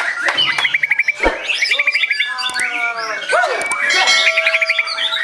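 White-rumped shama singing a continuous, varied song of rapid trills, sweeping whistles and chirps, with a held whistle about four seconds in.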